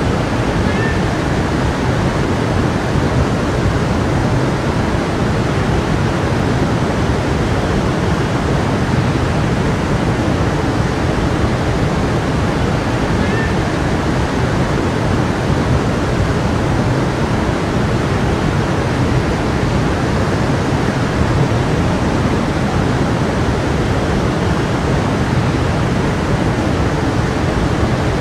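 A stream running over rocks, a steady unbroken rush of flowing water.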